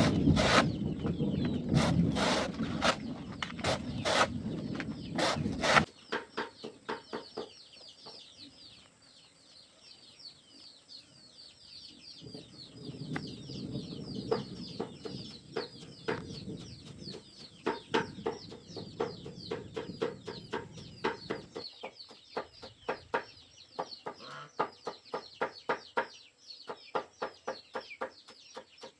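Chickens clucking in a long run of short calls over a steady high chirping. The first six seconds are covered by loud rustling with sharp knocks.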